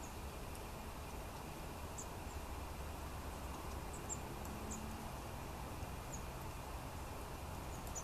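Thin, very high bird calls, single short notes at irregular intervals, about seven of them, over a steady low background rumble.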